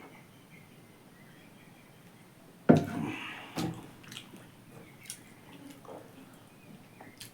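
Close-miked eating sounds: faint wet chewing with small clicks, broken by a sudden loud knock nearly three seconds in and a smaller one about a second later.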